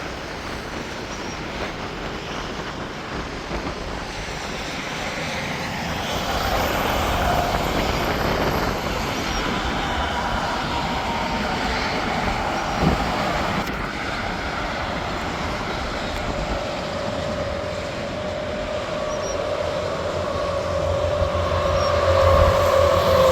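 Interstate highway traffic: a continuous rush of tyre and engine noise from passing trucks and cars, swelling and easing as vehicles go by, with a heavy truck's drone growing loudest near the end.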